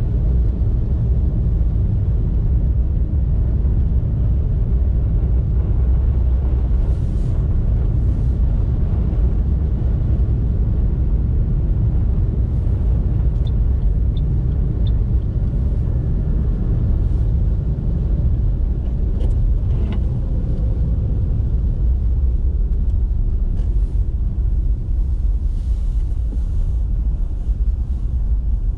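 A car driving on winter roads, with a steady low rumble of engine and road noise. Three faint short ticks come near the middle.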